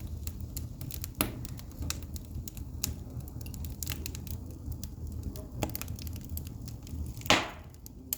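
Pine logs burning in an open fireplace: a steady low rumble of the fire with constant crackling and sharp pops, the loudest pop near the end.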